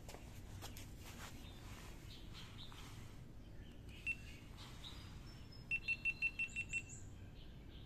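A small bird calling outdoors: one short high note about four seconds in, then a quick run of about seven identical high notes near the end, with faint higher chirps around it.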